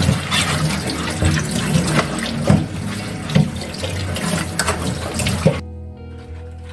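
Kitchen tap running into a sink, with scattered knocks and clatter of things being rinsed. The water cuts off about five and a half seconds in, leaving soft background music.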